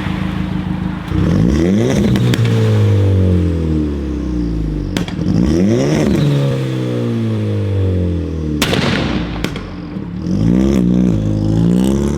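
A car's engine is revved hard three times through its exhaust. Each time the pitch climbs quickly and then falls back slowly, with a few sharp cracks between revs.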